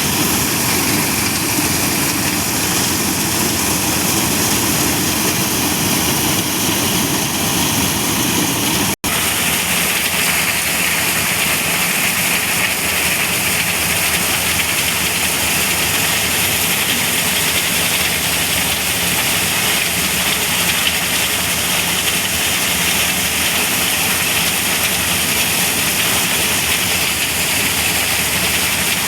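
Engine-driven corn thresher running steadily, its engine drone mixed with a loud, even rushing noise from the threshing. The sound drops out for an instant about nine seconds in, then carries on with a little more hiss.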